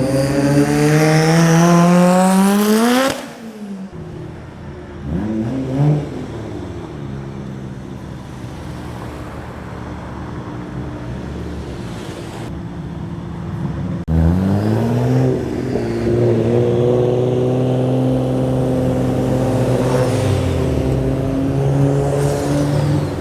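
A car engine revving: a rising rev for about three seconds that cuts off sharply, a short blip a few seconds later, then a sudden rise into a steady held rev for the last nine seconds or so.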